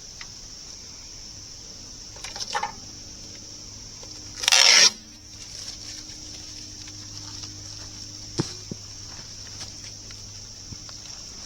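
Crickets trilling steadily. About four and a half seconds in there is a loud half-second burst of rasping noise, with a smaller scuffle before it and a sharp click a few seconds later.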